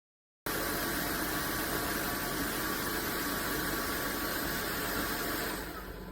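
Narwal S30 wet-dry vacuum mop running: a steady motor hiss that starts abruptly about half a second in and drops to a quieter hiss near the end.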